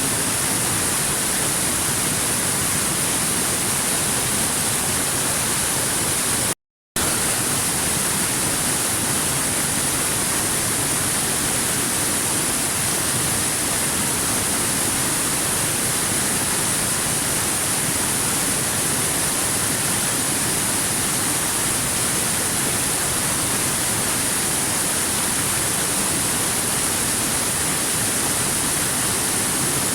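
Waterfall rushing in a steady, even roar of falling water with no change in level. About seven seconds in, the sound drops out completely for a split second, then resumes unchanged.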